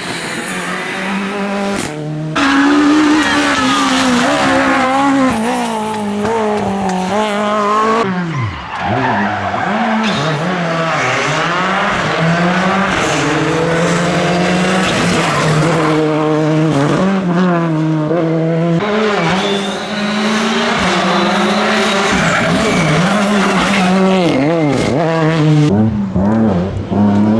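Rally cars on a stage, engines revving high and dropping again and again through gear changes, with tyre squeal. The sound changes abruptly a couple of times as one car's pass gives way to another's.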